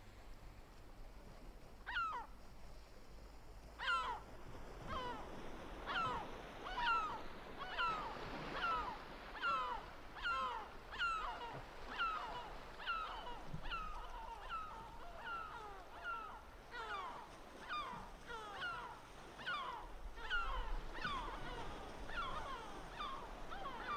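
Gull calling in a long series of short, downward-sliding cries, about one and a half a second, starting about two seconds in.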